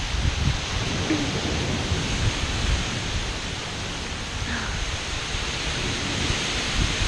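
Heavy thunderstorm rain pouring steadily, with gusty wind buffeting the microphone in uneven low rumbles.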